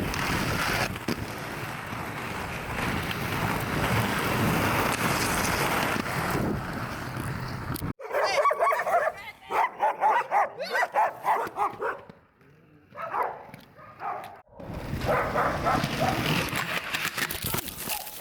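Wind-like rushing noise, then after a sudden cut a dog barking in quick repeated yips, with further barks and whines near the end.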